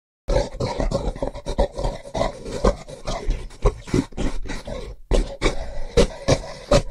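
Gorilla sounds: a rapid, irregular run of short, sharp, rough sounds, with a brief pause about five seconds in.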